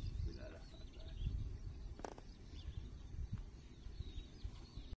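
Small birds chirping faintly over a low rumbling noise, with a single sharp click about two seconds in.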